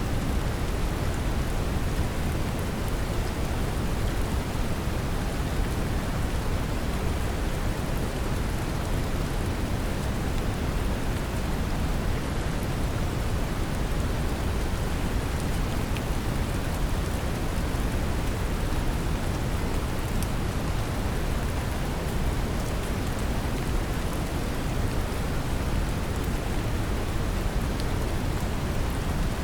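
Steady brown noise, a deep even rumbling hiss, mixed with the patter of gentle rain, with faint drop ticks here and there in the highs.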